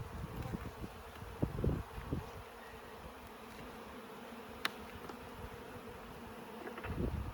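Honeybees buzzing steadily around an opened beehive, a constant hum. Low rumbling knocks come in the first couple of seconds and again near the end, with a single sharp click about two-thirds through.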